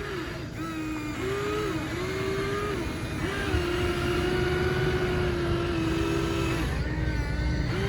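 Small electric motor of a radio-controlled toy construction machine whining steadily. Its pitch shifts up and down every second or two as the motor changes speed.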